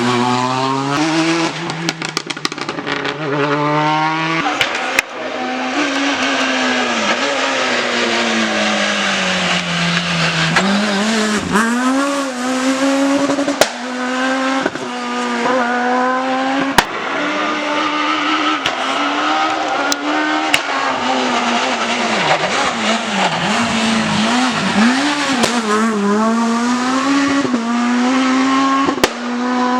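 Rally car engine pushed hard on a stage, revving up and dropping back again and again through quick gear changes. Sharp pops punctuate it and tyres squeal.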